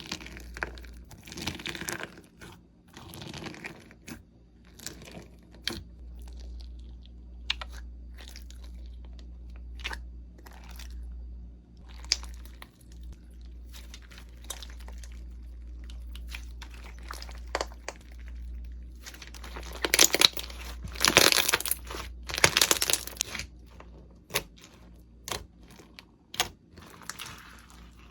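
Crunchy slime being pressed and squeezed by hand, giving irregular crackles and pops, with a denser, louder spell of crackling about two-thirds of the way through. A low steady hum sits underneath.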